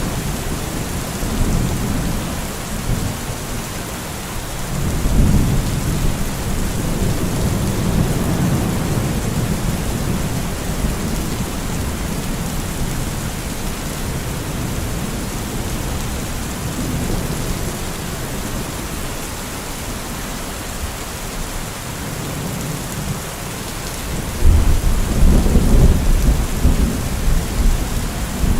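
Steady heavy rain with rolling thunder rumbling underneath, swelling a few times; the loudest rumble starts near the end.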